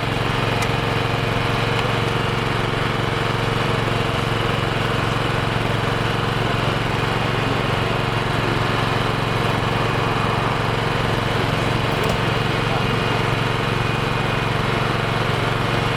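A motor vehicle engine idling steadily, a constant low hum with no change in speed.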